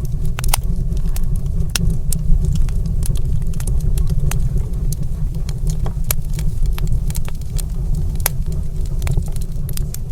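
Wood fire in a stone fireplace crackling and popping, with sharp irregular pops over a steady low rumble of the flames.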